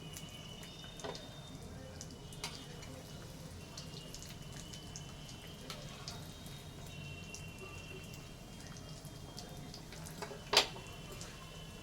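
Scattered small clicks and taps of food being handled, over a steady low hum, with one sharper click about ten and a half seconds in.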